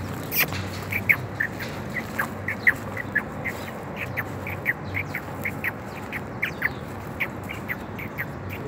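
Birds calling with short, sharp chirps, about two or three a second, over a steady low hum.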